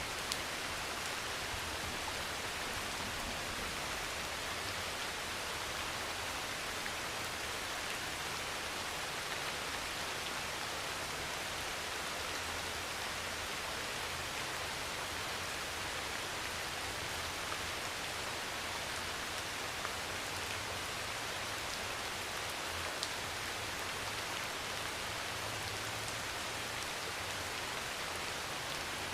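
Heavy rain pouring steadily on a metal roof, an even hiss with an occasional single drop ticking on the sheet.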